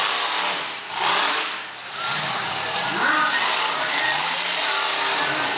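Monster truck engine revving and running hard, its pitch rising and falling, with a short lull about two seconds in.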